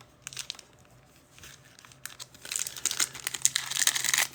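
Foil wrapper of a trading-card pack crinkling as it is handled and torn open. A few light clicks first, then continuous loud crinkling from about two and a half seconds in.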